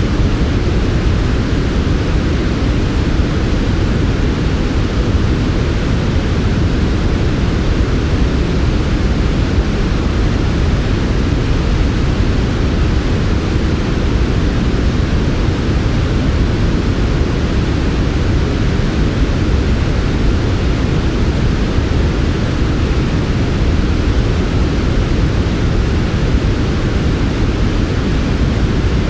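Steady, unbroken synthetic noise of the kind sold as soft white noise for sleep, shaped rather than flat: a deep, even rush with a softer hiss above it, unchanging throughout.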